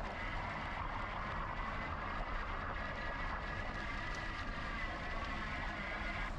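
Wind rumble and rolling noise from a moving bicycle, with a steady high whine over most of the stretch that cuts off near the end.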